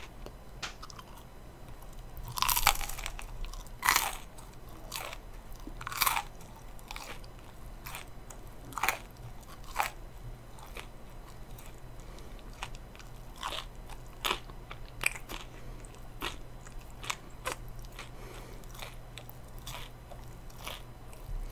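Close-miked biting and chewing of fried chicken: a series of separate crisp crunches, the loudest in the first ten seconds, then softer, scattered chewing crunches.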